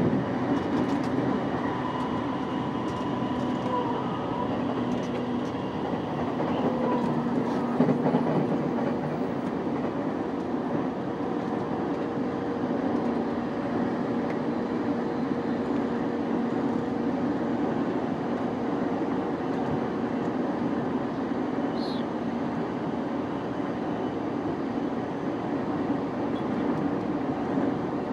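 Running noise of a JR East E233 series 5000 electric commuter train cruising at steady speed: an even rumble of wheels on rail with a faint steady hum over it, and one small click about three quarters of the way through.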